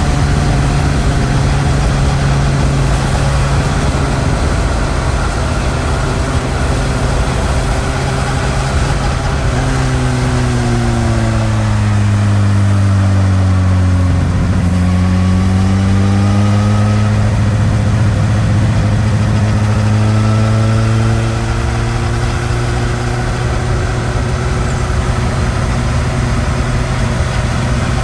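Suzuki GSX-S1000 inline-four engine with its stock exhaust, heard while riding, with wind and road noise. The engine note holds steady, falls as the bike slows from about ten seconds in, then climbs again from about fourteen seconds as it accelerates.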